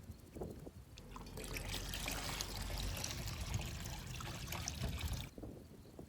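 Water trickling or pouring, starting about a second and a half in and stopping abruptly about four seconds later, with a few soft low knocks around it.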